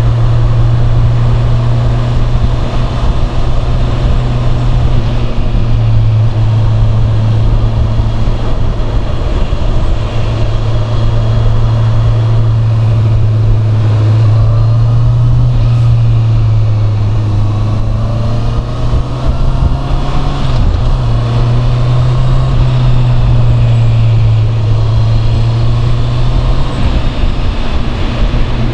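Honda CB650R's inline-four engine running through its standard exhaust while riding, a steady low note with a brief dip and wobble about twenty seconds in.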